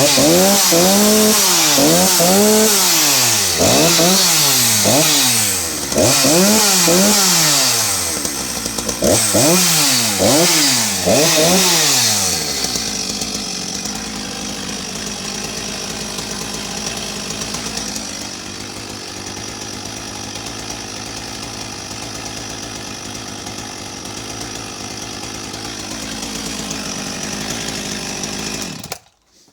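Husqvarna 254's single-cylinder two-stroke chainsaw engine on a restart, blipped up to high revs and back again and again for about the first twelve seconds. It then settles into a steady idle and stops abruptly near the end.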